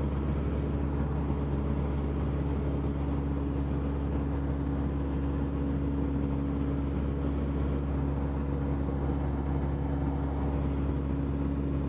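Cessna 172's piston engine and propeller running at a steady cruise power in flight, an even cabin drone with fixed low tones.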